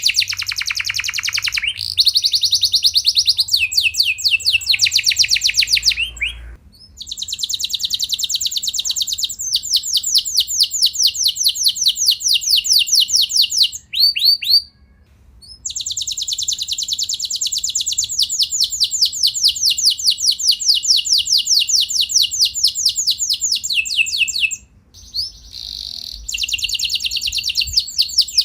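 Domestic canary singing long rolling trills: runs of rapid, evenly repeated high notes lasting several seconds each, broken by a few short pauses.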